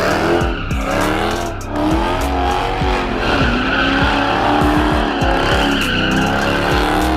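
Car spinning donuts: its engine revs rise and fall over and over while the tyres squeal and skid.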